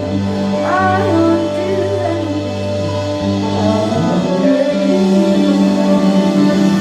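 Live band playing a slow passage of held notes, with gliding melodic lines near the start; about four seconds in the lowest bass note drops out and a higher bass line takes over.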